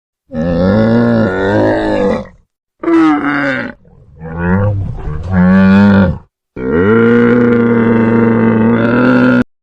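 Cow mooing: several long, low calls separated by short pauses, the last held steady for nearly three seconds.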